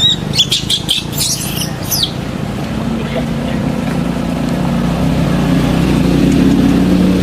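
A few short, high chirps or squeaks in the first two seconds, then a motor vehicle's engine hum that builds steadily and grows louder toward the end.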